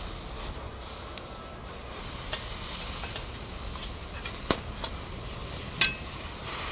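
Steady hiss of background noise broken by a few sharp clicks or knocks. The loudest comes about four and a half seconds in, and another near the end rings briefly.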